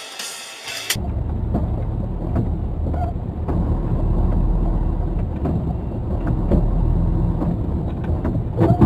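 Steady low rumble of a car on the move, engine and road noise, starting abruptly about a second in.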